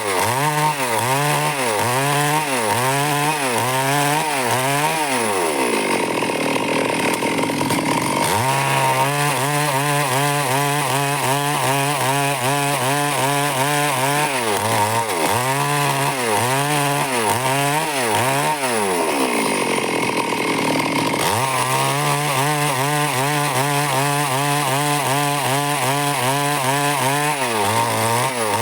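Stihl chainsaw cutting wood. The engine pitch wavers up and down about once a second under load. Twice, about five seconds in and again near the middle, it revs up high and then settles back.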